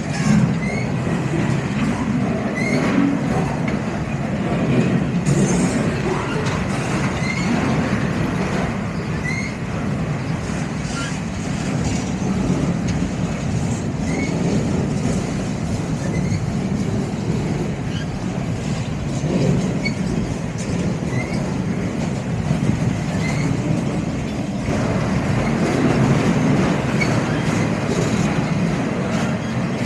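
Freight train rolling past, a steady rumble of wheels on rail, with occasional short high squeaks from the wheels.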